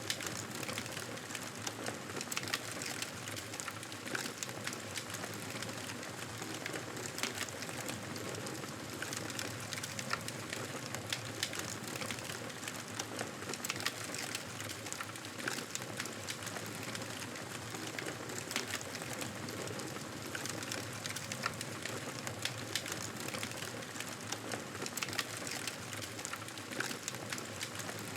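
Wood fire crackling in a fireplace: many small sharp pops scattered over a steady hiss.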